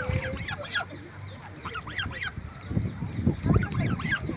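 Goslings peeping: many short, high calls that drop in pitch, coming in quick runs. A few low thumps about three seconds in.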